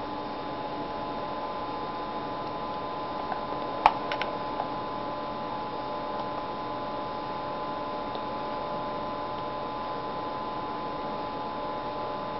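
Steady electrical hum with several fixed tones. About four seconds in there is one sharp click, followed within half a second by a few lighter ticks.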